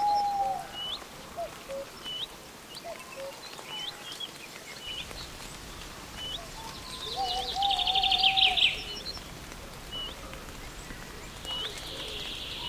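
Woodland birdsong: one bird repeats a short, high, upswept chirp roughly once a second, while lower fluty whistled notes come now and then. A rapid high trill lasting under two seconds, about seven seconds in, is the loudest call.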